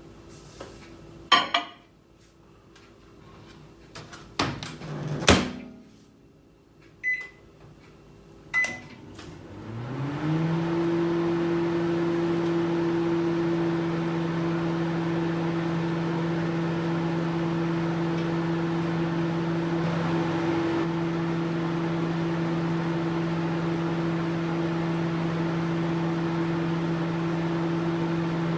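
Microwave oven being set going: a couple of clicks and a clunk like its door, two short keypad beeps, then the oven starts, its hum rising briefly in pitch and settling into a steady low hum with a fan rush as it runs.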